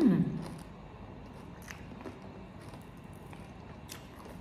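A woman's hummed "mmm" that rises and then falls in pitch, followed by quiet chewing of crispy fried chicken with a few faint crunches and mouth clicks.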